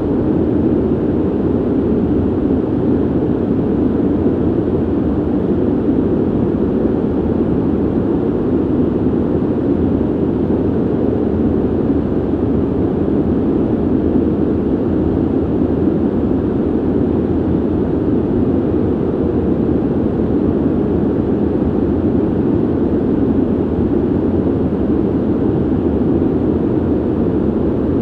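Steady ventilation noise: an even, deep rush of moving air, heavy in the low end with little hiss, unchanging throughout.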